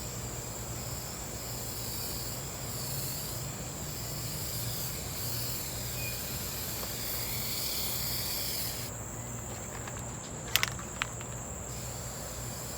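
Aerosol can of appliance spray paint hissing in a long continuous spray for about nine seconds, then stopping, followed by two sharp clicks. A steady high-pitched drone runs underneath.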